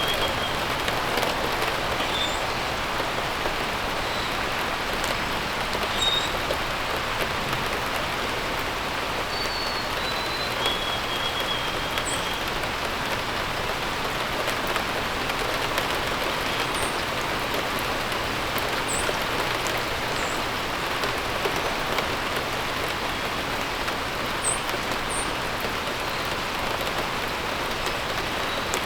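Steady rain falling, with short bird calls now and then: a few whistled notes in the first ten seconds or so and brief high chirps scattered through the later part.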